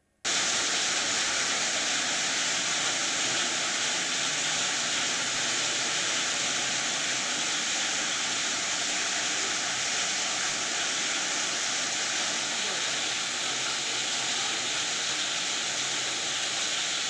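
Heavy rain pouring down in a steady, dense hiss that cuts in abruptly just after the start.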